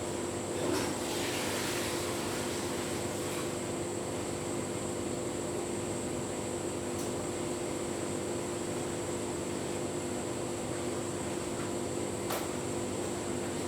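Tumble dryer running with a full load of bedding: a steady motor and fan hum, with a few light ticks from the tumbling load.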